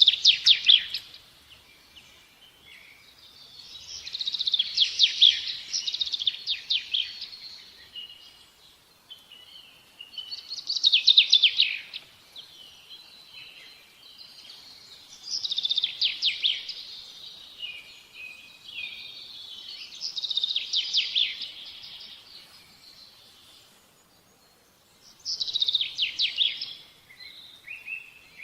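A songbird singing, repeating a phrase of rapid, high chirping notes about every five seconds, six times.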